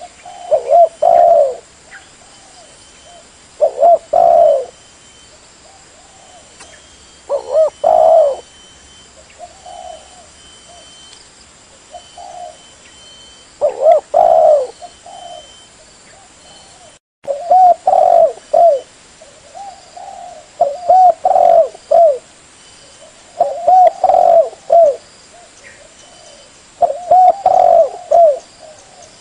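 Spotted dove (tekukur) cooing: repeated phrases of a few low, rolling coos, one every one to three seconds. There is a brief gap in the recording partway through.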